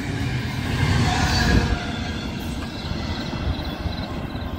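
Double-stack container freight train rolling past, a steady rumble of steel wheels on rail; it grows quieter after about two seconds.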